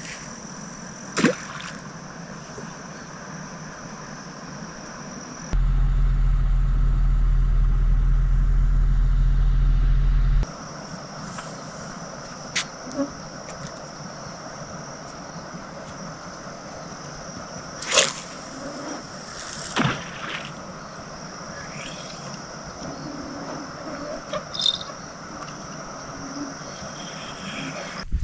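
Steady high-pitched drone of night insects, with a few sharp clicks scattered through it and a loud low rumble that cuts in for about five seconds early on.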